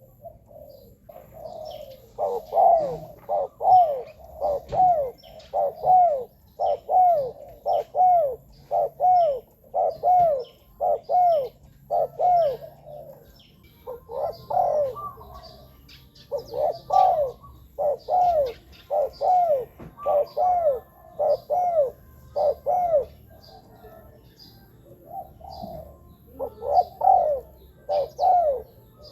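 A spotted dove cooing: repeated short, arched coo notes, often in close pairs, in long runs broken by two brief pauses. Faint high chirps of other small birds sound behind it.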